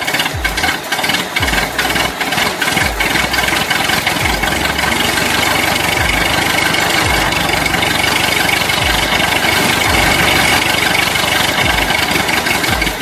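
A small engine running steadily, with a regular low thumping beat underneath like background music.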